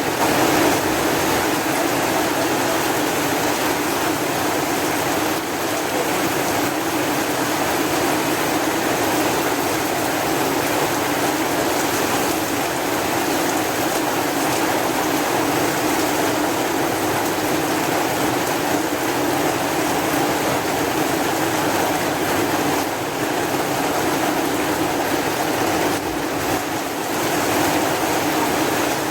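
Steady heavy rain, an even hiss and patter with no breaks.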